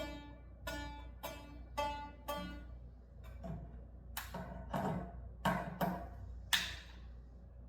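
Plucked instrument notes sounded one at a time, about two a second at first, each ringing briefly and fading, then four or five sharper, more clangy strikes in the second half, the loudest near the end.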